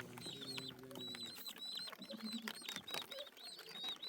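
Small birds chirping: a rapid run of short, high chirps, several a second.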